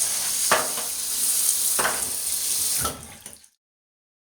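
Shower running with the tub spout diverter pulled up, a steady hiss of water with three short knocks, cutting off suddenly about three seconds in. The spout only drips, so the diverter is sending the flow to the shower head.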